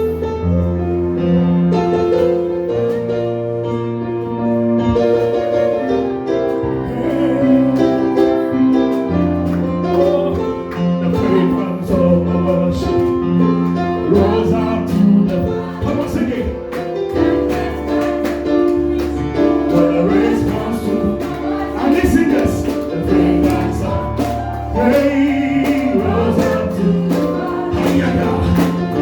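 Live gospel praise music: a band with bass, guitar and keyboard plays a steady beat while singers lead the song.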